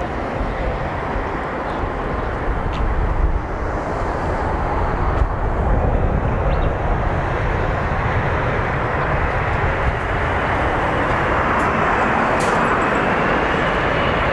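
Jet engine noise of a Boeing 787-9 on final approach, a steady rush that slowly grows louder as the airliner nears, with a faint high engine whine coming in over the last few seconds.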